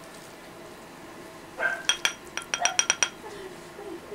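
Tableware clinking: a quick run of about a dozen sharp, ringing taps of dishes or glasses against each other, starting about a second and a half in, with a brief murmur of a voice.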